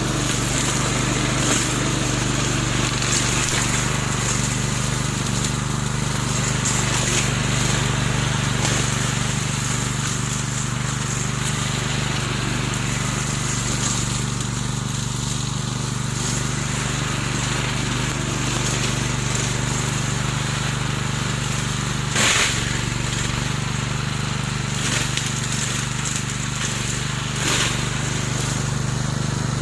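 Remote-controlled lawn mower's engine running steadily with a low even hum, with one sharp knock about two-thirds of the way through.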